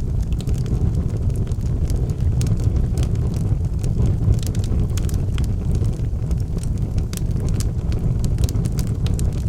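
Wood fire burning in a fireplace: a steady low rumble of the flames with frequent, irregular crackles and pops of the burning logs.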